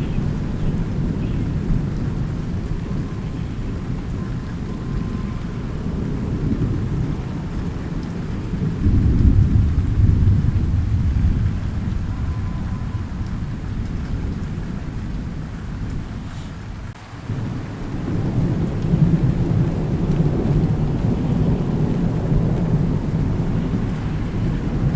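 Thunderstorm: thunder rumbling low and continuously over steady rain. A louder roll comes about a third of the way in, and after a brief lull past the middle the rumble builds again.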